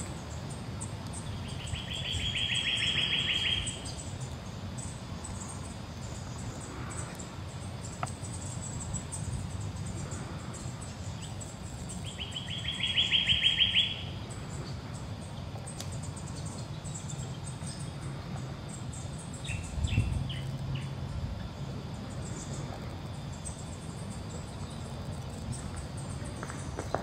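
A bird's fast, even trill, each about two seconds long, heard twice some ten seconds apart, over a faint steady high buzz of insects. A low thump comes about two-thirds of the way through.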